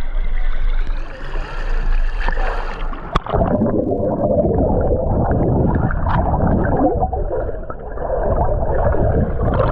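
Water heard from underwater: a muffled steady rush, then a sharp click about three seconds in, followed by dense bubbling and gurgling from swimmers moving through the water.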